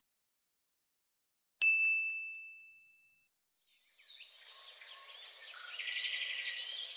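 A single bright ding that rings on one clear tone and fades over about a second and a half. After a pause, many birds start chirping together.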